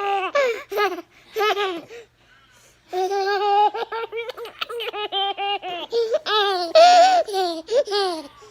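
A baby laughing in quick, repeated high-pitched bursts, with a short pause about two seconds in before a longer run of laughter.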